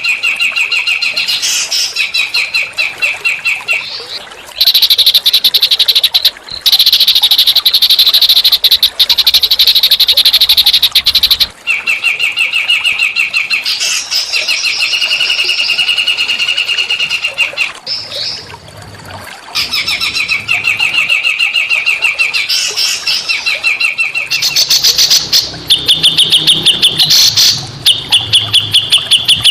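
Small songbirds singing long, very fast rattling trills. Each trill runs for a few seconds at one pitch, then breaks off and starts again higher or lower, with a brief pause about two-thirds of the way through.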